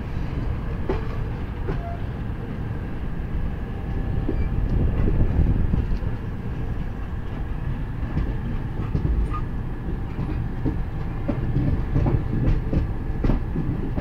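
Indian Railways passenger train running along the track, heard from inside a moving coach: a steady low rumble with irregular clicks and knocks as the wheels pass over rail joints. The rumble swells a little for a couple of seconds in the middle.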